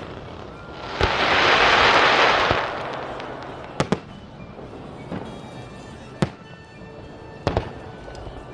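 Fireworks display: a loud crackling rush about a second in, lasting a second and a half, then sharp bangs of shells bursting, a quick pair near the middle and single ones after.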